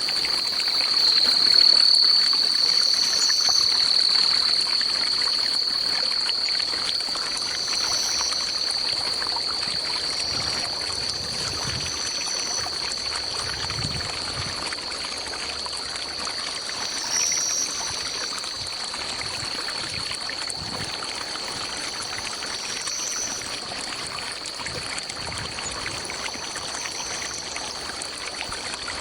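A trickling forest stream under a steady, high-pitched insect drone, with a short, higher call repeating every two to three seconds.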